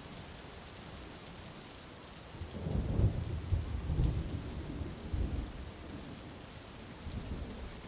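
Steady heavy rain with a rolling rumble of thunder that starts about two and a half seconds in, swells over the next couple of seconds and dies away, then a smaller rumble near the end.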